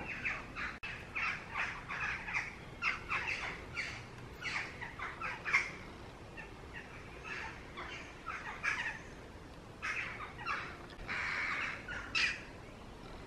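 Birds calling: a scatter of short repeated calls, with a harsher, longer call about eleven seconds in.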